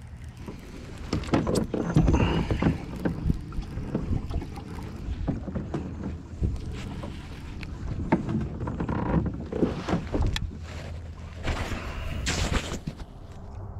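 Irregular knocks, clunks and scraping from gear being handled aboard a fishing kayak, over a steady low hum.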